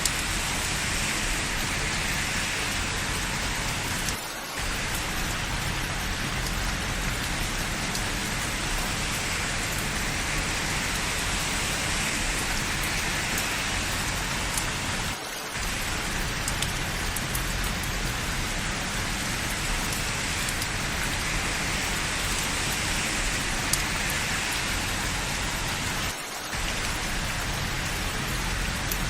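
Steady rain falling: an even hiss of rain on surfaces. The sound dips briefly three times, evenly spaced about eleven seconds apart.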